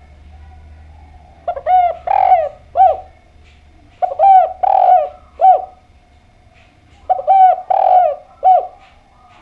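Spotted dove (derkuku, tekukur) cooing. It sings three phrases, each a run of a few short coos with a longer one in the middle, about two and a half seconds apart.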